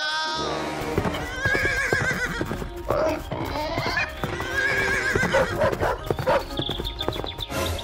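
A cartoon horse whinnying twice, each call about a second long, over fast galloping hoofbeats and background music.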